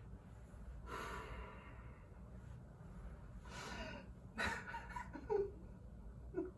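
A woman's feigned sobbing: a few heavy, breathy gasps and sighs, with short whimpering sounds about five seconds in.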